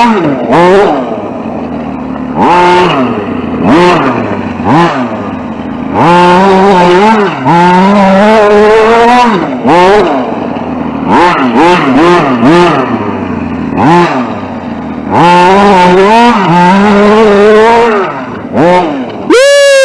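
RC short-course truck's motor whining in repeated throttle bursts, its pitch climbing and dropping again and again as it is driven over rough ground. Near the end a steep falling sweep in pitch as it slows hard.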